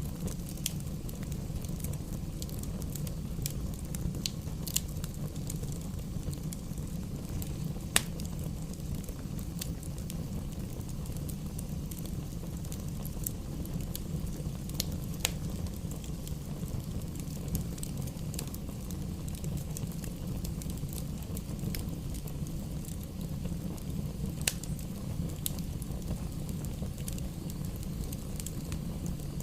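Wood fire in a fireplace crackling, with scattered sharp pops over a steady low rumble of burning. One loud pop about eight seconds in is the loudest sound, with fainter pops later on.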